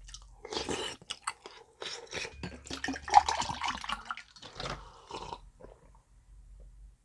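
Someone eating dumpling soup: wet chewing and biting with irregular smacking clicks, dying away about five and a half seconds in.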